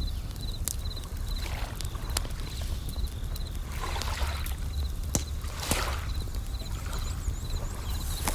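Bell crickets chirping in short repeated pulses, with a campfire crackling in sharp pops and waves washing in over a steady low rumble, a new swell every second or two.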